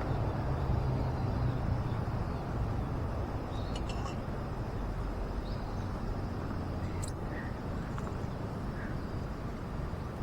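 Steady low outdoor rumble, with a few faint short high chirps and small clicks over it.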